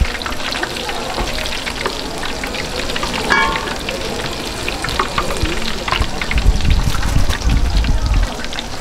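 Food frying in hot oil, a dense steady crackle and sizzle. A low rumble runs for about two seconds near the end.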